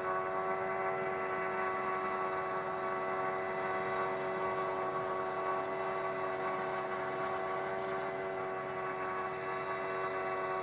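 A steady mechanical hum with several fixed pitches over a hiss, holding constant throughout.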